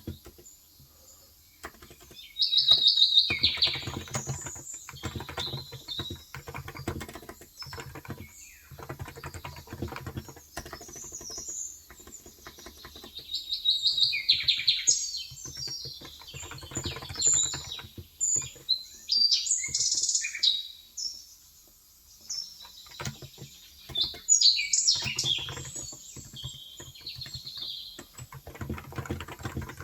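Birds chirping and singing in several loud bursts, over continual typing on a Cox Endeavour electrocapacitive (Topre-style) 35 g tenkeyless keyboard, its keys giving soft, quick clacks.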